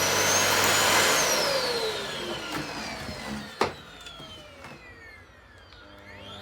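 Philips Series 9000 bagless vacuum cleaner's motor spinning up to full speed, then switched off and winding down with a falling whine. A sharp click comes about halfway through, and the motor starts spinning up again at the very end.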